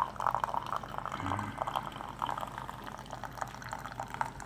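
Keurig K-Cup coffee maker dispensing freshly brewed coffee into a mug: a sputtering stream of liquid pouring and splashing, with small irregular crackles.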